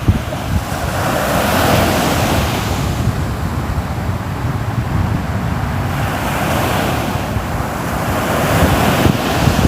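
Ocean surf: waves break and wash in, swelling about a second in and again around six seconds in. Wind rumbles on the microphone underneath.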